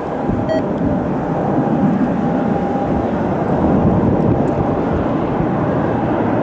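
Twin jet engines of a private Embraer ERJ-135 at takeoff power during its departure: a loud, steady rushing noise, mostly low and mid-pitched, with a faint held whine over the first few seconds.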